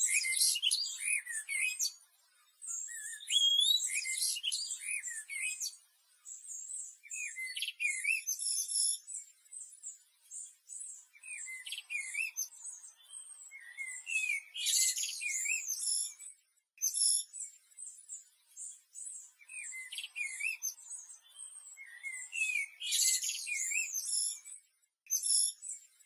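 Birdsong: rapid high chirps and trilled notes in phrases a second or two long, separated by short gaps.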